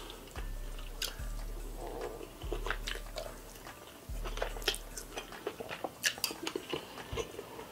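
Close-up chewing of saucy black bean noodles (jajangmyeon), with many short, wet mouth clicks and smacks.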